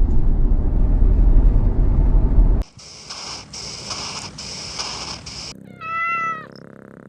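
A loud low rumble for the first two and a half seconds, then a steady hissing noise, then about six seconds in one short, pitched animal call.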